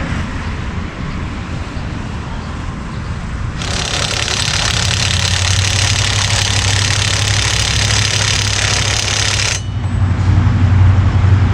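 Earthquake XT electric impact wrench hammering in one run of about six seconds, starting a few seconds in and cutting off sharply. A low steady hum sits underneath.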